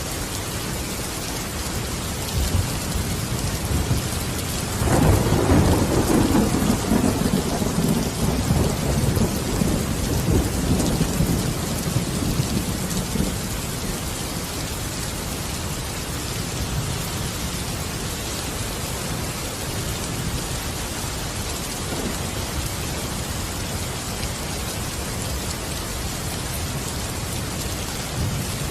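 Steady heavy rain hissing, with a roll of thunder about five seconds in that rumbles for several seconds and then fades back into the rain.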